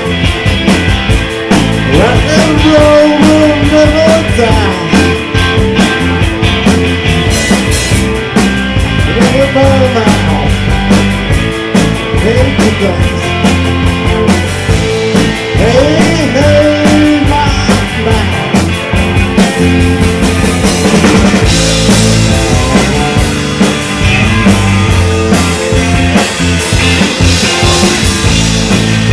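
A live rock band playing loudly: drum kit, guitars and bass.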